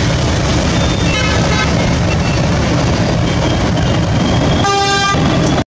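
Train running with a steady rumble, sounding two short horn toots, one about a second in and a second near the end. The sound cuts off suddenly just before the end.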